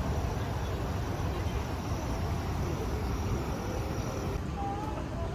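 Insects chirping outdoors: a faint, high, evenly pulsing trill over low rumbling background noise. About a second before the end it cuts to background music.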